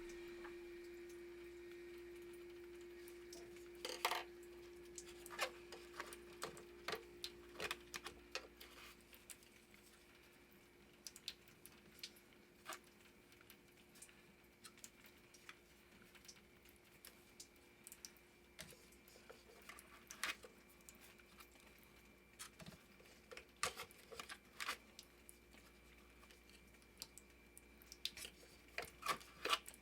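Scattered light clicks and taps of tools and plumbing parts being handled during a repair job, over a faint steady hum that fades away.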